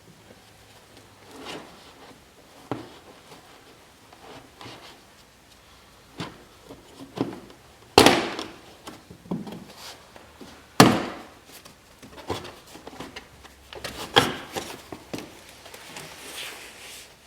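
Plastic driver's kick panel of a Tesla Model 3 being worked loose and pulled off: scattered knocks, rubbing and sharp pops as its trim clips let go, the two loudest pops about eight and eleven seconds in.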